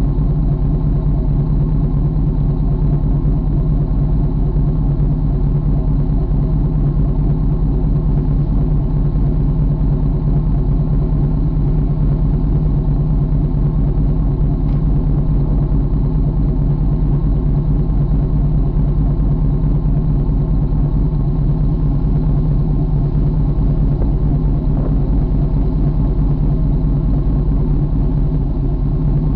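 2013 GM 6.0-litre V8 engine idling steadily, with an even low rumble and no revving.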